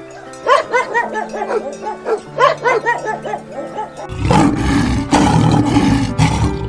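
A dog's short, pitched yelps repeated over background music, then about four seconds in a lion roars, loud and rough, taking over.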